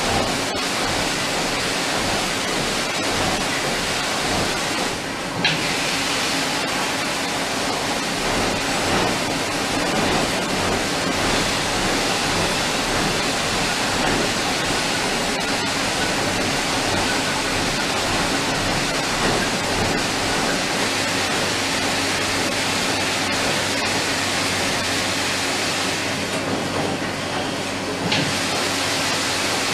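Steady factory-floor noise in an assembly hall: a constant rushing hiss over a low machine hum, with scattered faint clicks and one sharper click about five seconds in.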